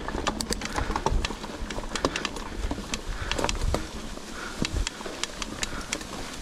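Mountain bike rattling over a rough trail: many irregular sharp clicks and knocks, with a low rumble underneath.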